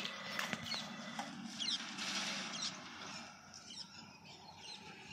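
Small birds chirping in short repeated calls, with a few sharp clicks near the start and a low steady hum that fades out about two seconds in.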